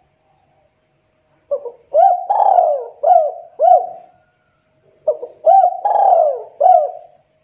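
Spotted dove (tekukur) cooing: two phrases of several hooting coos, the first starting about a second and a half in and the second after a short pause.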